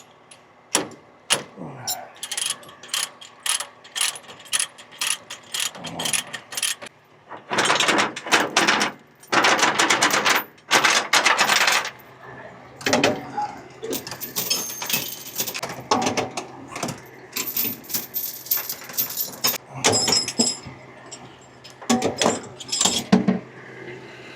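Repeated metal clanks, clicks and rattles from tow rigging being handled, with a few seconds of louder, rushing noise about a third of the way in.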